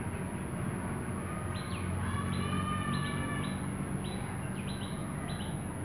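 A bird chirping: a string of short, high calls about twice a second, starting about a second and a half in, over a steady low hum.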